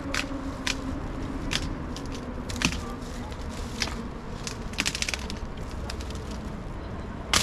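Dry wood cracking and snapping at irregular intervals as sticks and branches are broken, with a loud snap at the very end.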